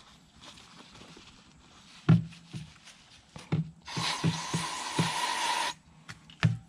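Aerosol can of brake cleaner spraying in a steady hiss for nearly two seconds, around the middle. A few short knocks come before and after it, the loudest about two seconds in.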